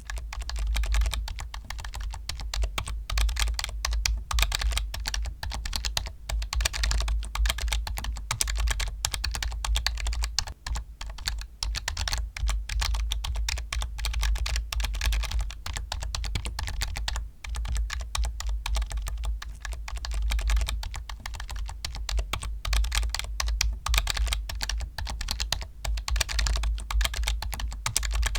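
Continuous fast typing on a computer keyboard, dense key clicks with a few brief pauses, over a steady low hum.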